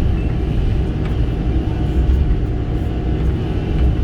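Kobelco SK85 excavator's diesel engine running steadily under working load, with a faint steady whine above the rumble.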